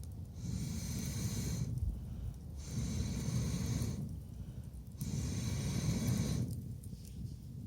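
A person blowing hard in long puffs onto a wood fire, about one puff every two seconds, each a rushing breath of a second and a half with short pauses between.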